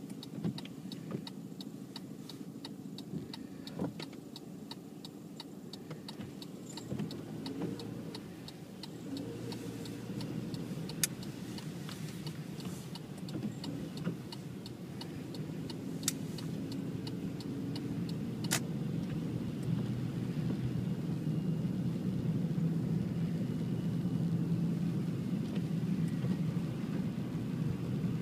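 A motor vehicle's engine running steadily and growing louder over the second half, with a fast, even ticking through the first part and a few sharp clicks.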